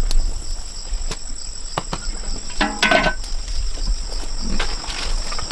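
Steady high-pitched insect chorus from crickets or cicadas, with scattered light clicks. A short pitched call comes about halfway through.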